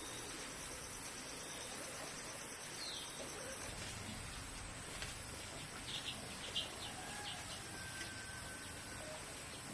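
Outdoor insect chorus: a steady high-pitched drone with a fast pulsing trill that stops about four seconds in, and a few short bird-like chirps around six to seven seconds in.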